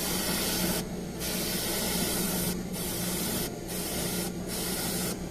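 Airbrush spraying paint in short passes: about five bursts of hiss with brief breaks between them, over a steady low hum. It is laying a second coat of black-gold paint to darken a silver-painted part.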